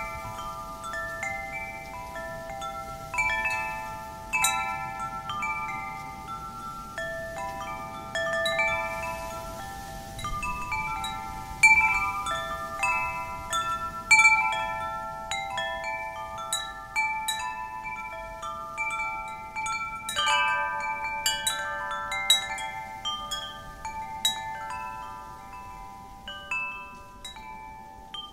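Wind chimes ringing, many tubes struck at random, their overlapping tones sustaining and decaying, over a faint steady rush of wind.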